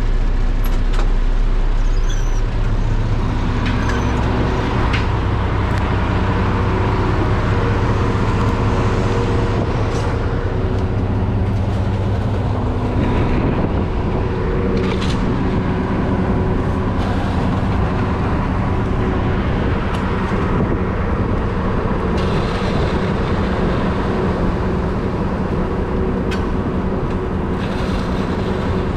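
Concrete mixer truck's diesel engine running steadily, with its note shifting about 13 seconds in.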